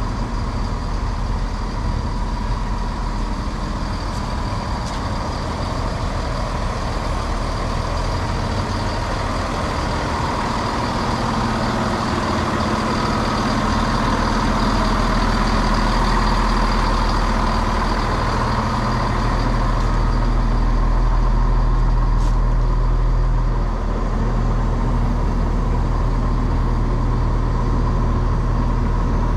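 Two-car diesel passenger train's engine running with a steady whine above it, growing louder through the middle stretch, then dipping briefly and settling.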